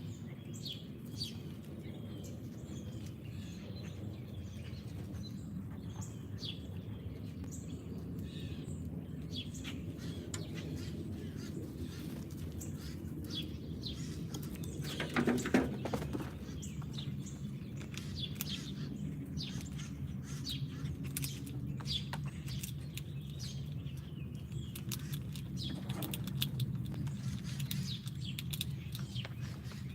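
Wild songbirds chirping and calling in quick, scattered notes over a steady low outdoor rumble, with one brief louder sound about halfway through.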